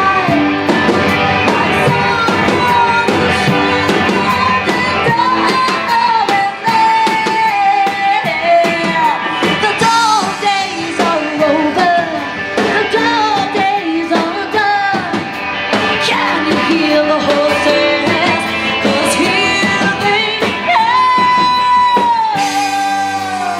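Live rock band playing with a lead singer over guitar and drums. A long held vocal note comes near the end.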